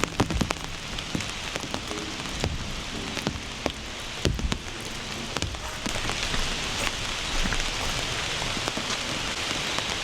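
Steady rain, an even hiss with many scattered drops clicking on a surface, with a few faint musical notes under it.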